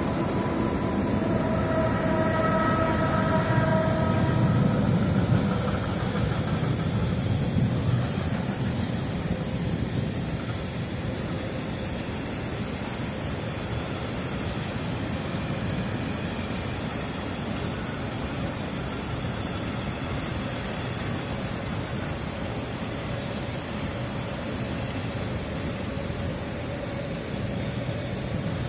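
Freight train crossing a steel bridge. In the first several seconds an electric locomotive passes with a steady whine in several tones over a heavy low rumble. After that the freight wagons roll past with a steady rumble.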